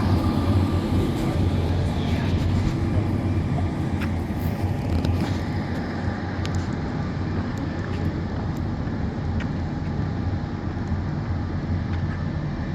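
Street traffic: vehicle engines running with a steady low rumble and scattered faint clicks.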